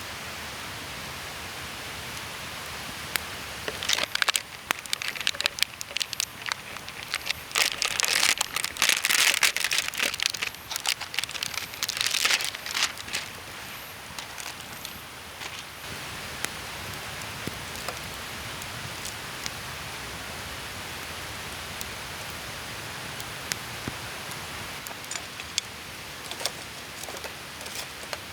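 A steady outdoor hiss, with close, dense crackling and crinkling from about four seconds in until about thirteen seconds, then only the hiss with a few scattered clicks.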